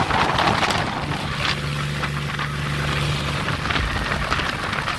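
Tractor diesel engine running steadily at speed, with wind rushing over the microphone.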